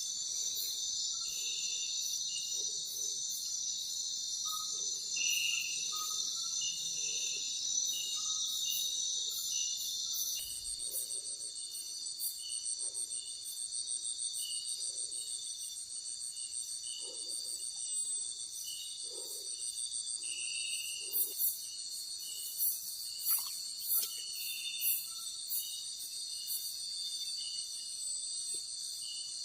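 Night insect chorus of crickets: dense, steady high trilling. A higher pulsing buzz joins in about ten seconds in.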